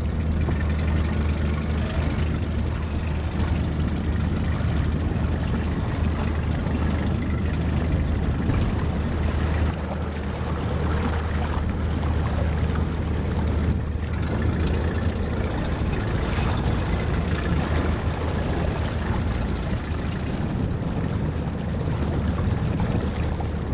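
Motorboat engine running with a steady low drone, under a steady rushing noise.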